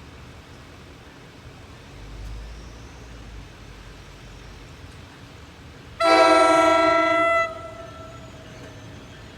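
A train's air horn sounds one loud chord blast about six seconds in, lasting about a second and a half, over faint steady background noise.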